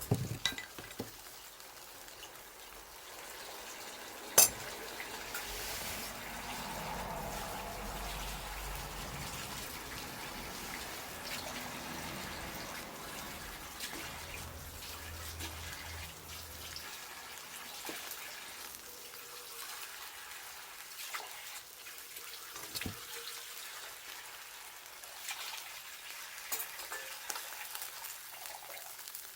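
Wood bonfire burning with a steady hiss and scattered crackles, and one sharp pop about four seconds in.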